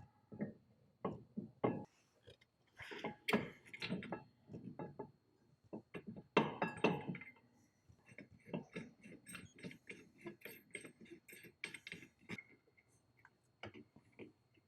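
Metal clinks and clicks of tools and hardware while a rear brake caliper is fitted to the car: an irregular run of taps and ticks, busiest about three and six seconds in.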